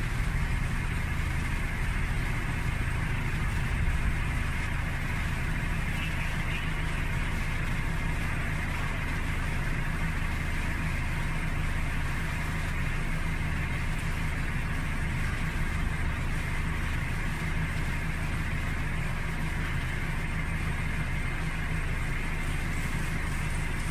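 A motor vehicle's engine running steadily: an unbroken low hum that holds the same pitch throughout.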